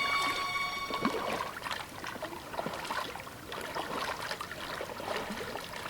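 Gentle splashing and trickling water with small irregular drips, while steady music tones fade out about a second in.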